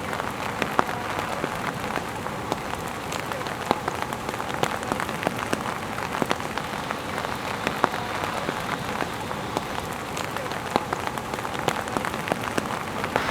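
Steady rain falling, heard as an even hiss with many individual drops ticking sharply throughout.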